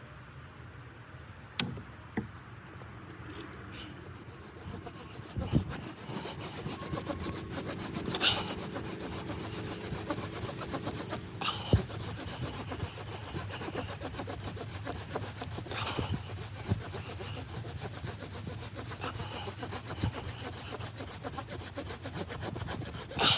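Rapid, steady scraping strokes on wood, with a few scattered knocks.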